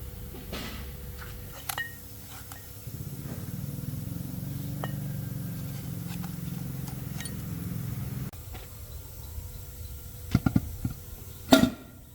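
Metal parts and tools clinking in a workshop over a low steady hum, which cuts off suddenly about eight seconds in; a few sharp knocks follow near the end.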